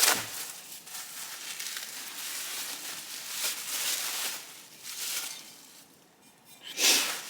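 Packing material rustling and crinkling as parts are unwrapped and handled, with louder rustles at the start and near the end.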